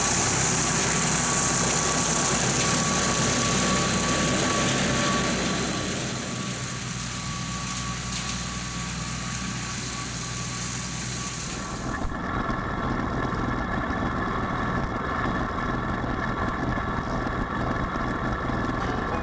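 Kubota L3901 tractor's diesel engine running steadily while pulling a Land Pride RCR1860 rotary cutter through grass, with a strong high hiss over it. About two-thirds of the way through the hiss cuts off suddenly and the engine sound carries on steadier.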